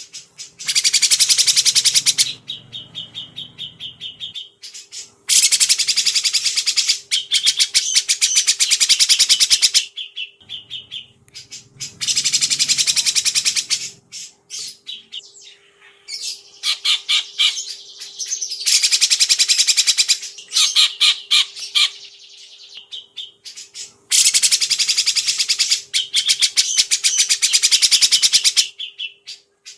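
A songbird singing loud, very rapid chattering trills in bursts of two to four seconds, about six of them, with short pauses between. A faint steady hum lies underneath.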